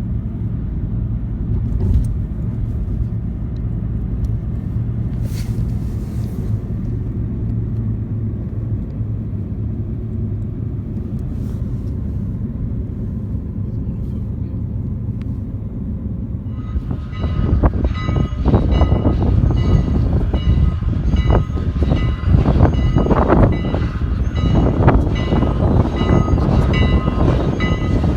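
Steady low rumble of an approaching train. About two-thirds in, it becomes louder as the train passes close: quick irregular knocks of wheels over rail joints, with several steady high ringing tones over them.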